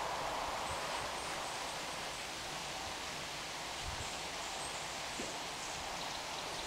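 Steady hiss of rain and wind in the trees, with the last of a passing train's noise dying away over the first couple of seconds.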